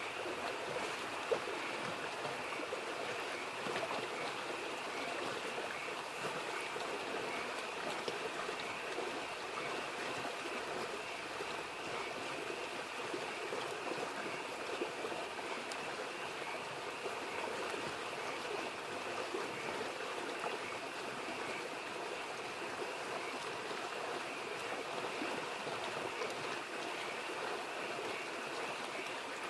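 Steady babbling of a mountain stream, with a constant chorus of frogs over it. About a second in comes a single sharp crack, like a pop from the wood fire.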